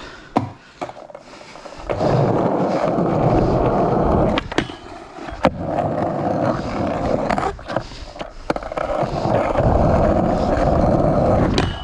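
Skateboard rolling on hard ground, in runs of steady wheel noise broken by several sharp clacks and knocks of the board.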